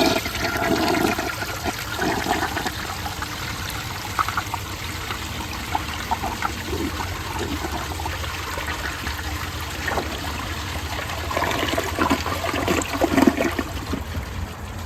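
1968 American Standard Cadet toilet flushing with its tank overfilled: water rushes steadily through the bowl, with louder splashing near the start and again near the end.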